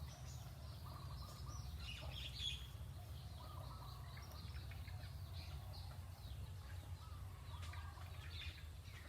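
Birds chirping and calling, many short chirps through the whole stretch, over a steady low hum.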